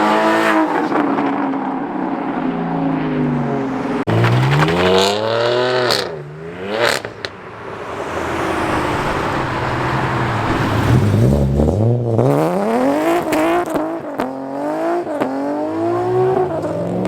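Car engines revving hard and accelerating away, the pitch climbing and dropping back several times as they rev and shift up.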